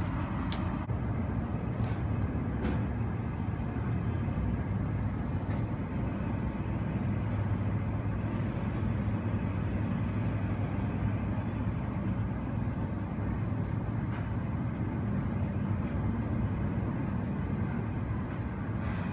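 Steady low rumble of airport apron noise, heard muffled through terminal window glass.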